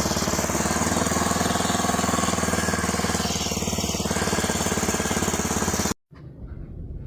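Engine running steadily with a fast, even pulsing beat; about six seconds in it cuts off abruptly to a much quieter low rumble.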